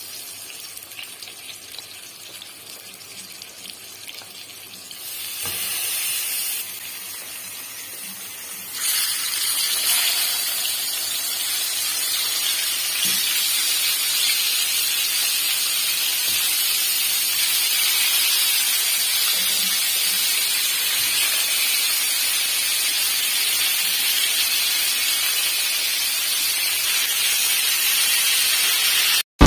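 Fish pieces sizzling as they shallow-fry in hot oil in a pan, a steady hiss. The sizzle is quieter at first and grows louder about five and nine seconds in, then holds steady.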